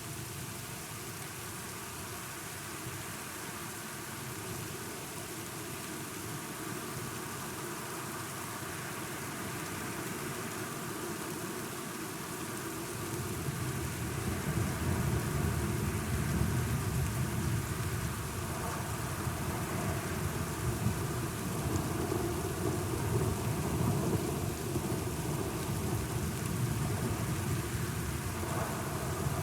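Steady rain with rolling thunder. A low rumble of thunder builds about halfway through and keeps rolling, louder than the rain.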